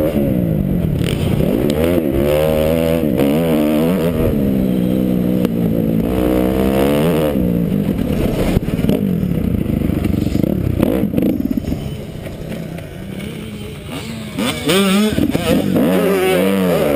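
Kawasaki KX250F single-cylinder four-stroke motocross engine revving up and down over and over as the rider accelerates and shifts through the track. It eases off for about two seconds near the end, then picks up again.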